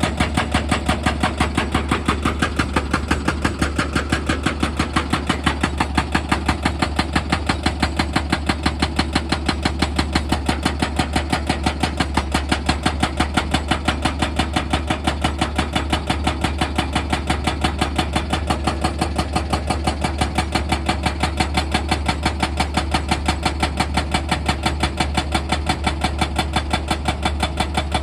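Heavy excavator machinery running with a rapid, even pounding of about three strokes a second over a steady low hum, as in drilling.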